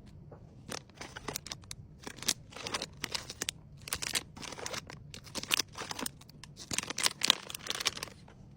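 Packaging crinkling and rustling in a string of short, irregular bursts as items are handled and packed.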